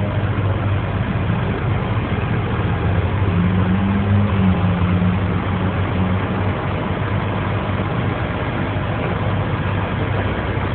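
Heavy vehicle engine idling steadily, with a brief rise in pitch about four seconds in, over a steady hum of street noise.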